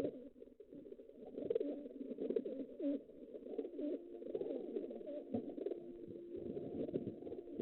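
Pigeons cooing, a continuous low burbling of overlapping calls.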